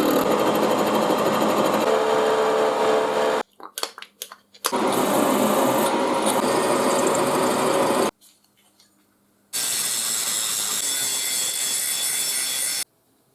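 A power tool running on the steel of a railway rail in three long stretches, each starting and cutting off abruptly. A few brief knocks come between the first two stretches.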